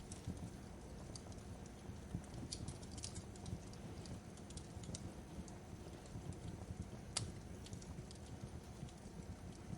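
Fireplace crackling: a steady low rumble of burning with irregular sharp pops and crackles, the sharpest about seven seconds in.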